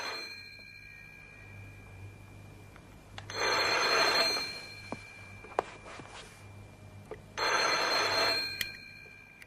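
Telephone bell ringing in rings about a second and a half long, with three rings about four seconds apart, over a low mains-like hum and a few faint clicks.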